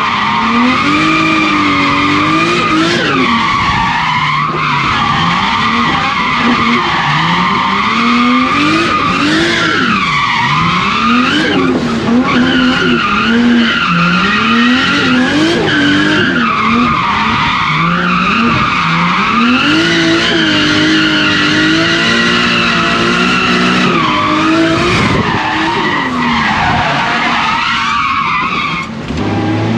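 Drift car engine revving up and down again and again through a run, with the tyres skidding.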